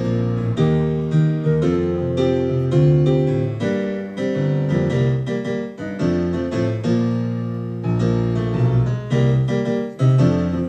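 Piano or keyboard playing sustained chords and melody notes, with no singing: the instrumental outro of a song.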